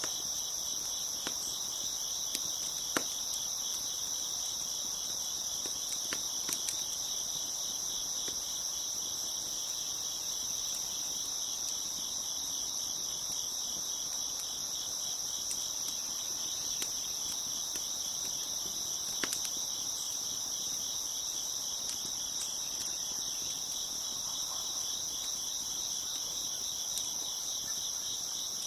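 A dense chorus of crickets chirping in a steady high-pitched trill, with a few sharp pops from a crackling wood fire, the strongest about three seconds in and again near nineteen seconds.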